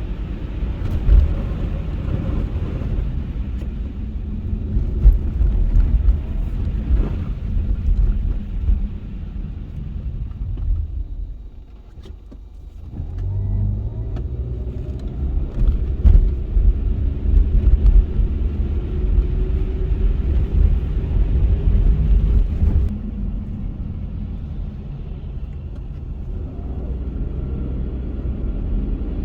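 Car driving: steady low engine and road rumble. It dips briefly about twelve seconds in, then returns with an engine tone that rises slowly as the car picks up speed.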